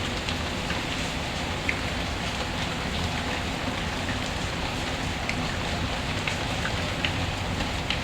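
Steady rain falling, with scattered sharp pops about once a second, the crackle of a wood fire mixed in.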